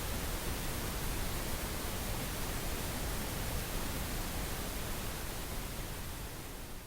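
Steady pink noise, an even hiss with a deep rumble under it, fading out near the end.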